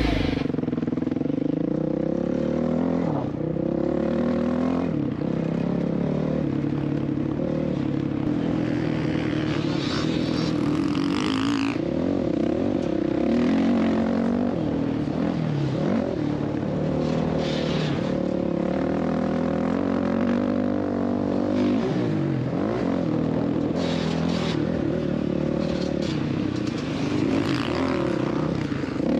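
Dirt bike engine revving up and down as it is ridden around a motocross track, its pitch rising and falling repeatedly through throttle and gear changes, with occasional knocks and rattles.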